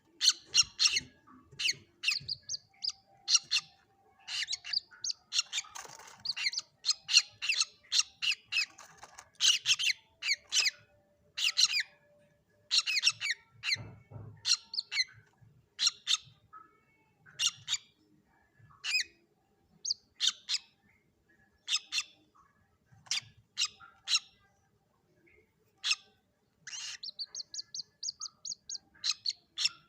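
Young common moorhen calling: short, sharp, high-pitched notes repeated irregularly, one or two a second, with a quick run of about ten notes near the end.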